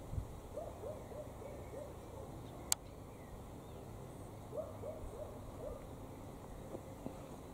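A bird calling in short runs of low hooting notes, two runs of four or five, with a single sharp click about a third of the way through.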